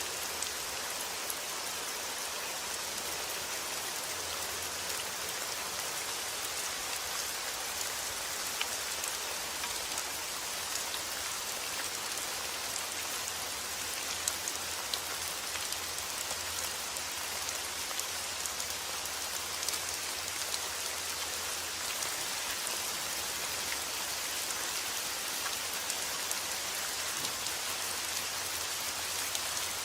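Steady rainfall, an even hiss with scattered drop ticks, without a break or change.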